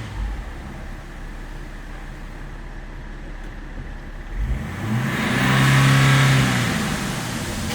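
BMW X5 E53 3.0d's straight-six turbodiesel (306D2) idling on test, then revved once about halfway through: the engine note rises, holds briefly and falls back toward idle near the end.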